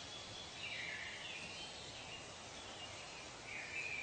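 Natural ambience recording: birds calling twice, about a second in and again near the end, over a steady faint background hiss.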